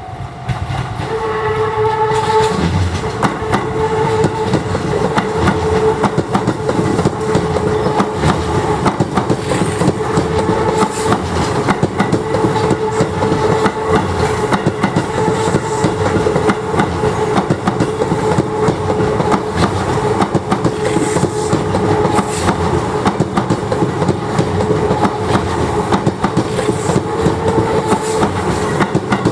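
Sotetsu 11000 series electric commuter train running past, its wheels clacking over the rail joints, while a level-crossing bell rings on and on. A short horn-like tone sounds about a second in.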